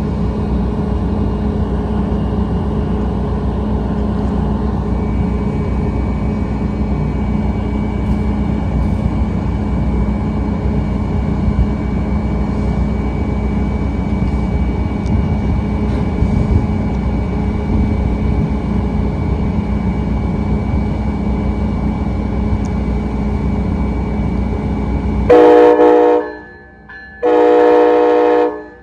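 Train running with a steady loud rumble and low hum, then the rumble cuts off and a locomotive horn sounds two blasts, the second a little longer, near the end.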